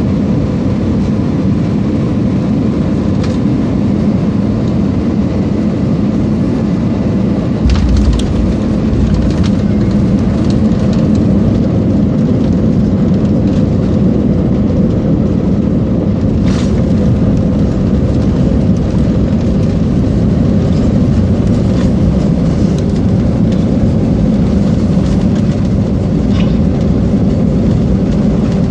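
Cabin noise inside an Airbus A320 landing: steady engine and airflow rumble, then a sudden low thump about eight seconds in as the wheels touch down, followed by the rumble of the rollout.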